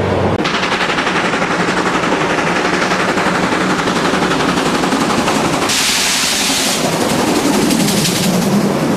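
Steam locomotive working hard, its exhaust beats coming as a rapid rattle, with a loud hiss for about a second past the middle.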